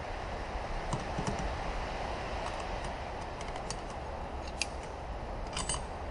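Light, scattered clicks and taps of small hard parts being handled, with a short flurry of clicks near the end, over a steady background hum.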